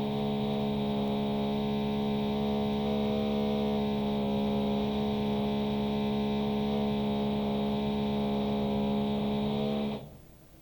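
Electric drill in the flat upstairs, heard through the ceiling, running at a steady speed with a pitched whine and hum, then switching off sharply near the end.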